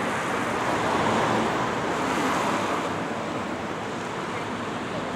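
Street traffic noise, a vehicle passing by that swells about a second in and then fades.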